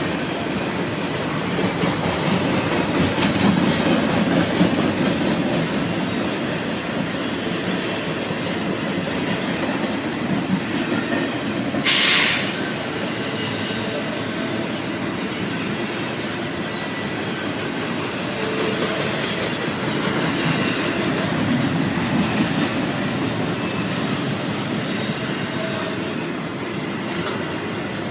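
Norfolk Southern freight train's cars rolling steadily past, with a brief loud burst of noise about twelve seconds in.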